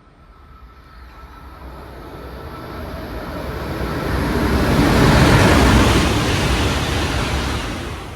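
Tohoku Shinkansen bullet train passing through a station at high speed without stopping: a rushing roar that swells over about five seconds, peaks a little past the middle, then falls away quickly near the end.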